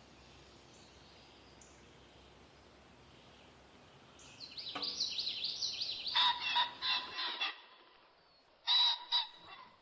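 Faint outdoor background, then birds calling: a quick run of high chirps about four seconds in, followed by loud, harsh calls, with one more harsh call near the end.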